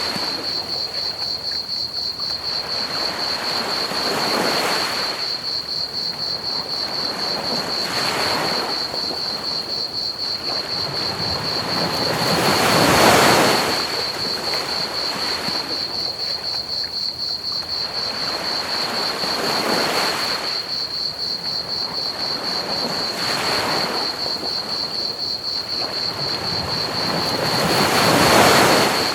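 Ocean waves breaking and washing up a beach, swelling about every four seconds, with the largest surges about halfway through and near the end. Over them a steady chorus of crickets chirps, and a constant bed of pink-noise hiss fills the gaps between waves.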